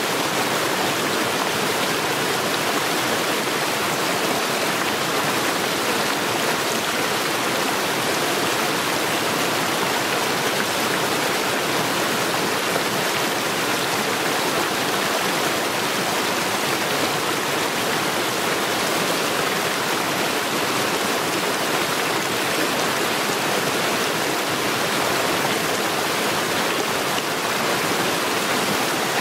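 Mountain stream rushing over stones in a steady, unbroken flow.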